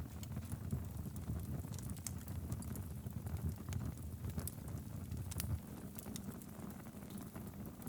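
Logs burning in a fireplace: a steady low rumble of flames with scattered sharp crackles and pops at irregular moments.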